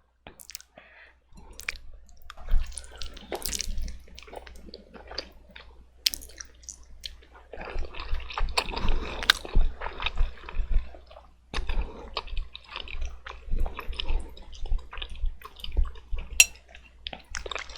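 Close-up eating sounds of sauce-coated black bean noodles: wet slurping, chewing and lip smacks, with many short clicks and longer slurps from about halfway through.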